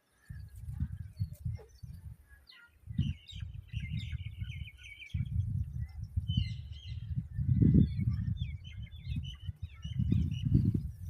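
Babblers chirping, with rapid chattering runs of short high notes, over a louder, uneven low rumbling on the microphone.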